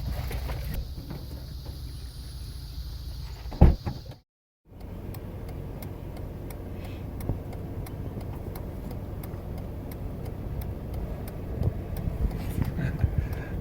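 A single loud thump a little under four seconds in, then, after an abrupt cut, the steady low rumble of a car driving, heard from inside.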